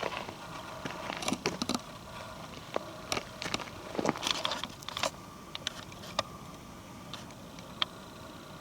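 Footsteps crunching over dry twigs and leaf litter, as irregular clusters of crackles that thin out to a few scattered snaps after about five seconds.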